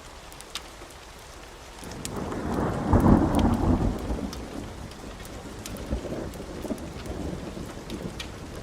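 Steady rain with scattered sharp ticks, and a roll of thunder that swells about two seconds in, peaks a second later and rumbles away over several seconds.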